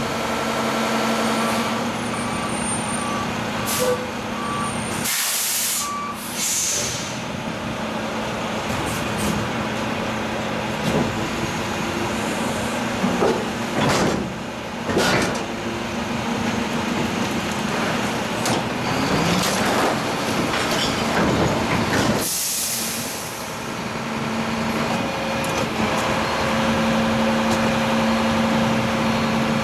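Heavy truck engine running steadily, with two loud bursts of air hissing from its air system, about five seconds in and again about 22 seconds in, and a few short beeps in the first few seconds.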